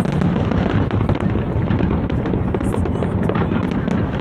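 Aerial fireworks display going off without pause: a steady low rumble of overlapping booms with many sharp cracks.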